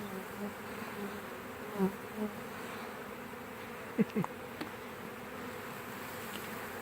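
Honeybee swarm buzzing steadily. About four seconds in, two bees fly close past the microphone, each buzz sliding down in pitch as it passes.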